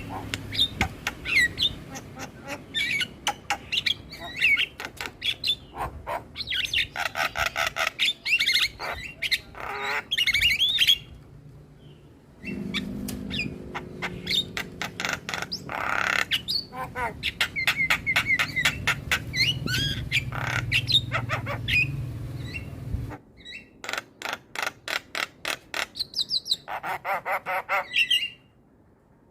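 Starlings and mynas (jalak) chattering: rapid runs of clicks and rattles mixed with whistled chirps and harsh calls. It comes in spliced segments that cut off abruptly about 11, 23 and 28 seconds in. This is a lure recording for setting other starlings calling.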